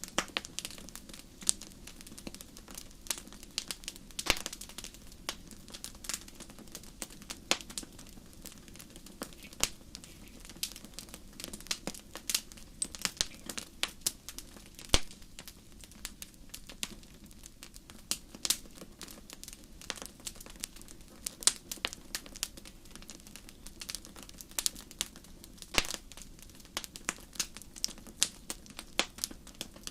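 Wood fire crackling in a fireplace: irregular sharp pops and snaps, several a second, over a steady low rush of the flames.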